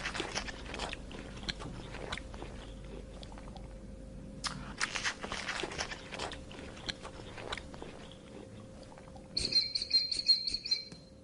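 Irregular crunching and crackling like an animal chewing something crisp, then near the end a quick run of high-pitched squeaky chirps.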